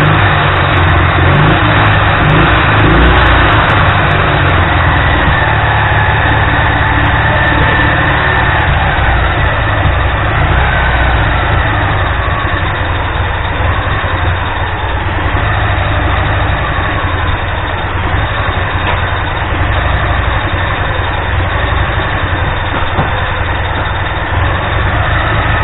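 Ural motorcycle's flat-twin boxer engine running, idling with some revving in the first half. It is the engine freshly assembled from two non-working ones.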